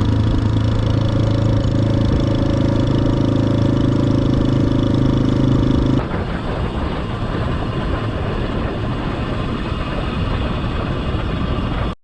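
Small single-cylinder dual-sport motorcycle engine running at a steady speed, its tone holding even. About six seconds in the sound changes abruptly to a rougher, noisier rush of engine and wind.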